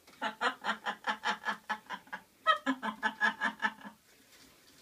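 Laughing: rhythmic 'ha-ha' pulses, about five a second, in two runs of about two seconds and a second and a half, then it stops about a second before the end.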